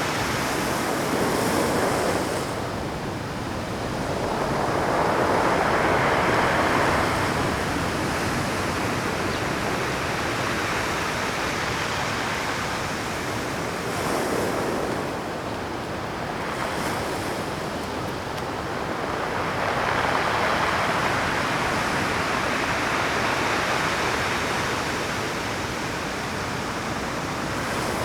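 Rough Pacific surf breaking and washing over shoreline rocks at high tide, a continuous rushing roar that swells with each wave surge, the biggest about five seconds in and again about twenty seconds in. Some wind buffets the microphone.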